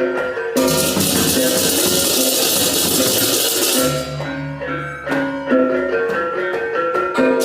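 Balinese baleganjur gamelan playing: pitched bronze gongs and drums with a continuous wash of crashing cengceng cymbals that drops out about four seconds in, after which the gongs and drums carry on and separate cymbal strokes come back.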